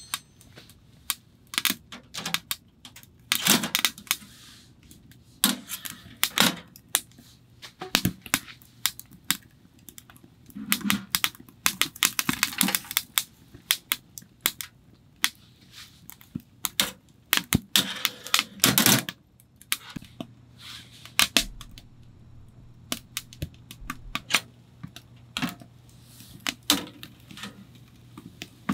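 Irregular sharp clicks, knocks and clatter of wood and small metal gear being handled, as a fire is got going in a small titanium wood stove. A faint steady low hum comes in about two-thirds of the way through.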